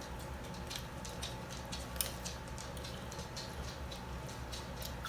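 Eating sounds: scattered small clicks and crunches of chewing and mouth noises, the sharpest about two seconds in, over a steady low hum.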